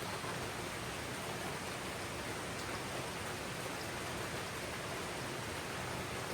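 Steady rain falling on jungle foliage, an even hiss with no distinct drops or pauses.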